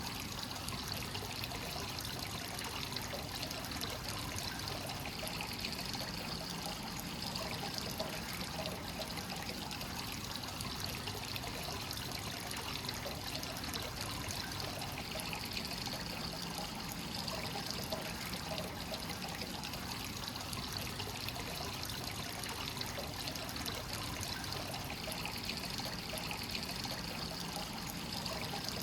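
Hot spring water running continuously into a bath, a steady trickling pour. The upper splash swells slightly about every ten seconds.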